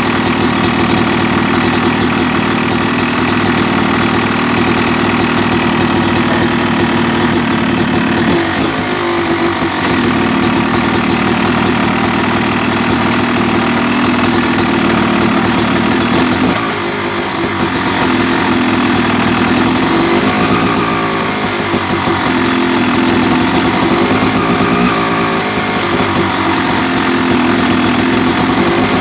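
Freshly rebuilt Yamaha YZ250 two-stroke engine, bored out to 270cc, running steadily. Its speed dips and picks up again about a third of the way in and again near the middle, with smaller changes in the later part.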